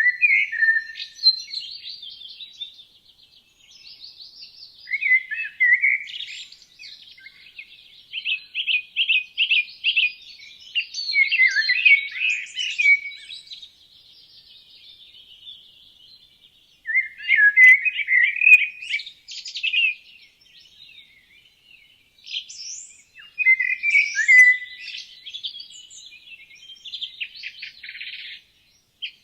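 Songbirds singing in phrases of varied chirps and quick trills, with short pauses between phrases.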